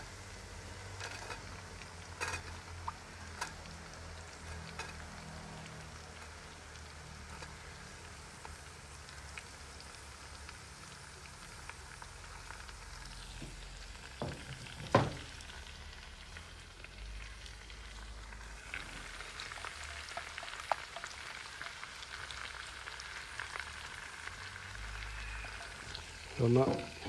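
Sliced onions frying with a steady, gentle sizzle in oil in an aluminium uruli. A few light clicks come early on, and one sharper knock sounds about halfway through.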